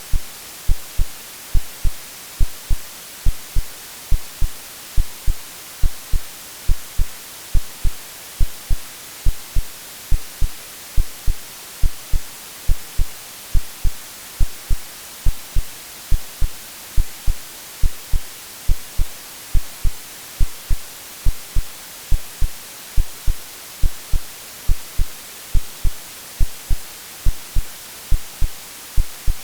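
AI-generated white noise with a simulated heartbeat: a steady hiss under an even rhythm of low lub-dub thumps in pairs, the thumps the loudest part.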